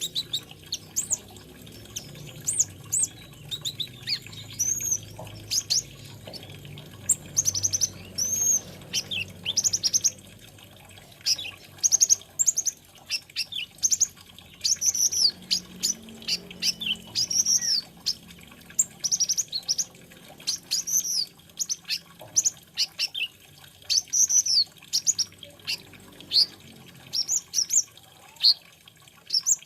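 A sunbird, the 'kolibri ninja' or konin, singing: rapid phrases of short, high, thin chirps and slurred notes, repeated with brief pauses between phrases.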